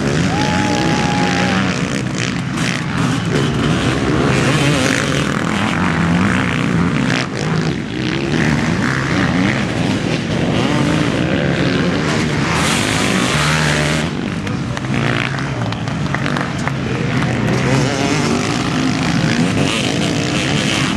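Motocross bikes racing, engines revving hard and repeatedly rising and falling in pitch as the riders open and shut the throttle and change gear.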